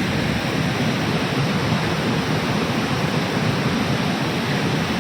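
Pykara Falls, a waterfall in full spate from monsoon rain, roaring as the river crashes over rocks: a steady, even rush of water.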